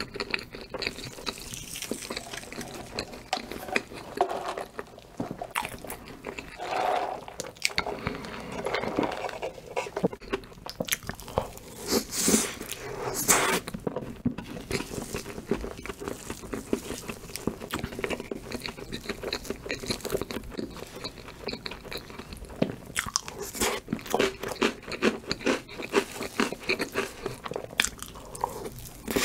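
A person chewing and biting Oreo cream cake close to the microphone: wet mouth clicks and crunching in quick, uneven succession.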